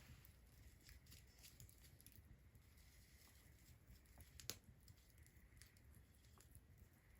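Faint crackling of a wood fire: scattered small pops and snaps, with one sharper pop about four and a half seconds in.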